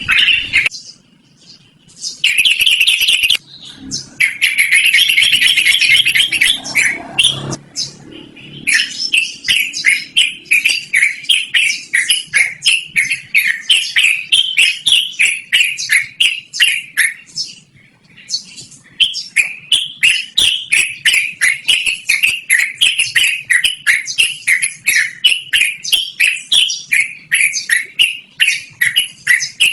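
Yellow-vented bulbul singing loudly. A few dense phrases come early, then a long rolling run of quick repeated notes, each falling in pitch, at about four a second, with a brief break around the middle.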